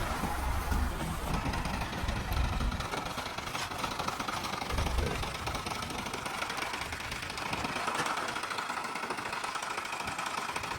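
Diesel engine of a JCB backhoe loader running at work, with a clattering, knocking note; its low rumble drops away about three seconds in.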